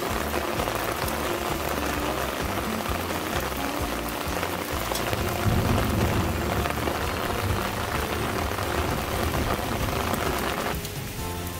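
Steady rain falling on garden plants and pots, with soft background music underneath. The rain sound drops away near the end, leaving mostly the music.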